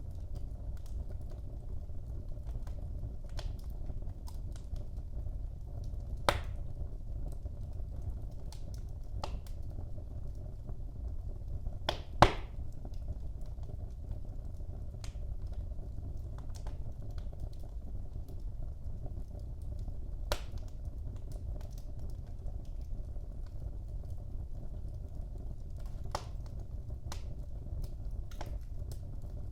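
Wood fire burning in a fireplace: a steady low rumble of flames with scattered crackles and a few sharp pops, the loudest about six and twelve seconds in.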